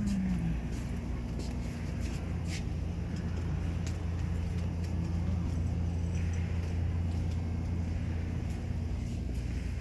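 Steady low hum of a shop's background noise, with a few faint clicks and taps scattered through it.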